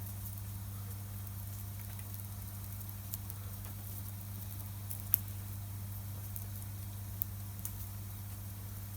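Wood campfire crackling with sparse sharp pops, the loudest a little past halfway, over a steady low hum.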